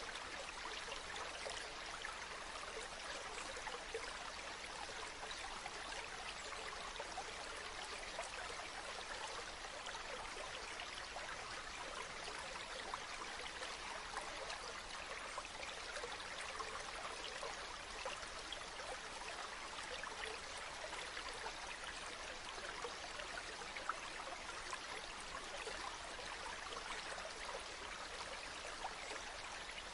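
River water flowing and babbling steadily over stones, an even rushing with fine splashes and trickles.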